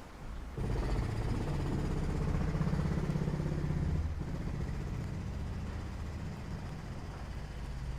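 A motor vehicle's engine running close by. It comes in suddenly about half a second in, is loudest for the next few seconds, then runs on a little quieter.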